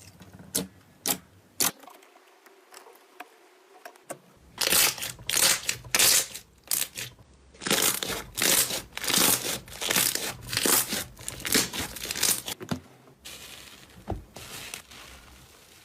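Slime being squeezed and pulled by hand, making crackling, popping sounds. There are a few separate clicks in the first two seconds, then a quick run of crackles from about four seconds in until near the end.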